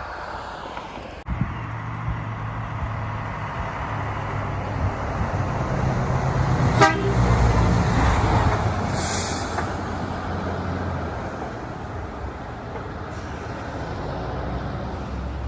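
Heavy diesel truck engine running, growing louder toward the middle and then easing off, with a horn sounded.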